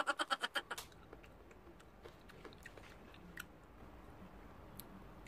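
A person chewing soft ripe mango with wet mouth sounds. A quick run of loud smacks at about ten a second fades out about a second in, then only soft scattered chewing clicks.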